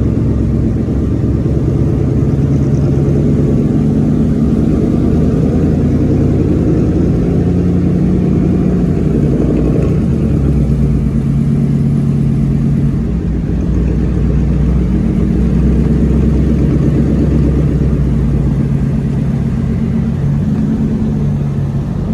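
Pickup truck engine and exhaust running loudly with a deep, steady note that shifts in pitch about halfway through and again near the end.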